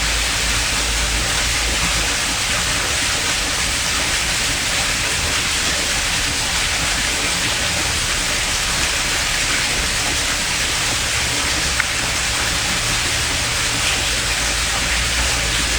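Steady, loud hissing noise with no rhythm or pitch, and one faint click about twelve seconds in.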